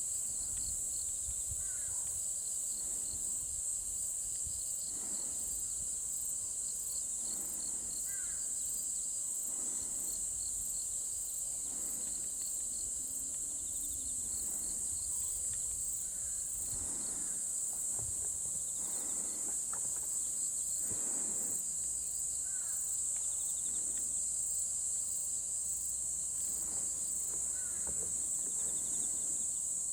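A chorus of insects trilling steadily: a high, unbroken pulsing buzz, with a few faint bird chirps now and then.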